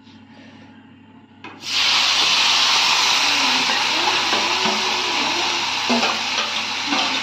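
Tomato dropped into hot oil in a steel kadai, a loud frying sizzle that starts suddenly about a second and a half in and then runs steadily, with a few knocks of the spoon on the plate and pan.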